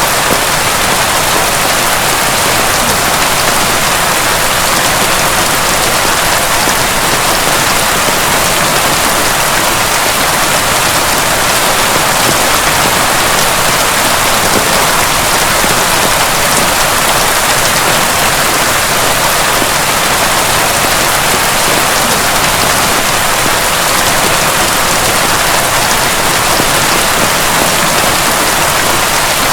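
Heavy rain falling steadily, a loud, even hiss without breaks or thunder claps.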